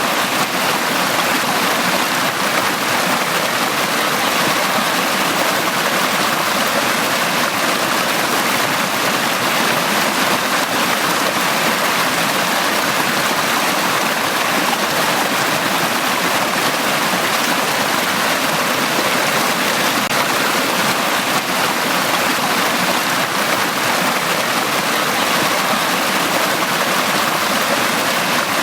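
Valley stream flowing, a steady, unchanging rush of water.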